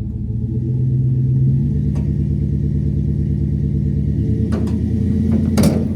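Vehicle engine running steadily, growing a little louder about a second in, with a few clicks and a short louder burst of noise near the end.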